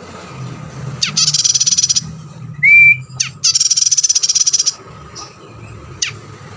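Recorded songbird calls for bird training: two long, rapid, buzzy high trills, each opened by a quick downward-sweeping note, and between them one short, loud, clear whistle that rises and then holds.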